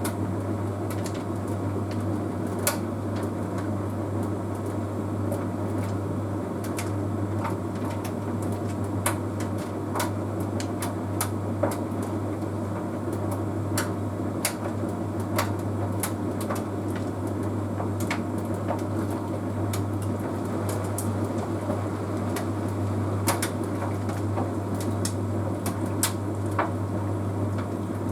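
Bosch Series 6 heat pump tumble dryer running near the end of its Easy Care cycle: a steady low hum with light, irregular clicks every second or so.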